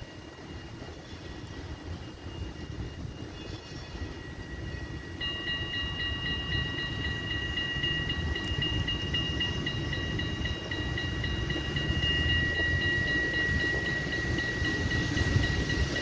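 Tram approaching on its rails with a rumble that grows louder. From about five seconds in, a steady high-pitched squeal of the steel wheels on the rails joins it and gets louder.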